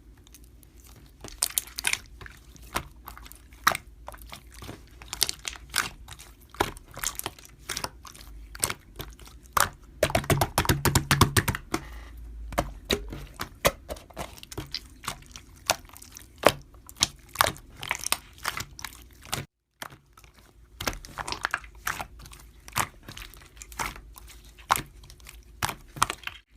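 Slime being squeezed and poked by hand, giving a run of sharp clicks and crackly pops, densest about ten seconds in.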